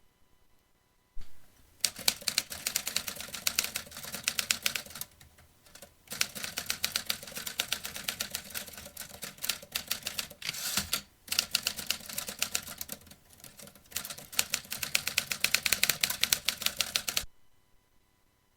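Vintage manual typewriter being typed on: rapid, uneven runs of key clacks with short breaks, starting about a second in and stopping abruptly near the end.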